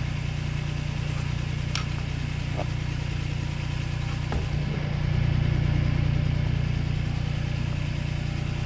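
Small tractor's engine running steadily, getting a little louder about five seconds in, with a few faint clicks.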